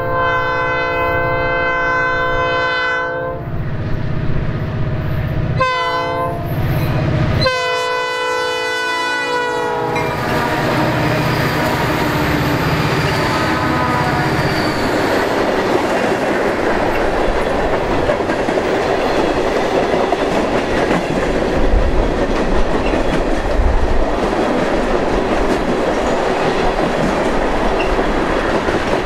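Air horn of a lead EMD SD40-2 diesel locomotive: the end of a long blast, a short blast, then a last long blast that drops in pitch as the four-unit lashup passes, over the throb of their 16-cylinder two-stroke engines working upgrade. Then the freight cars roll past, wheels clicking over the rail joints, with a heavier low rumble about two-thirds of the way through.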